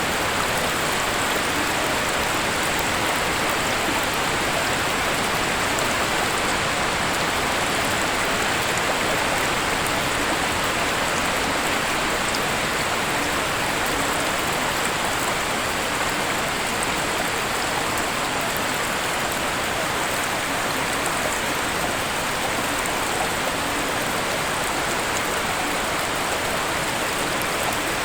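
Waterfall: a steady, unbroken rush of falling water that holds even throughout.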